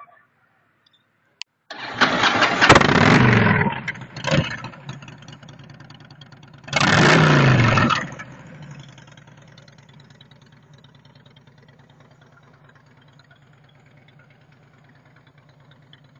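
Motorcycle engine started about two seconds in and revved hard twice, pitch falling after each rev, with a short blip between, then settling into a steady idle.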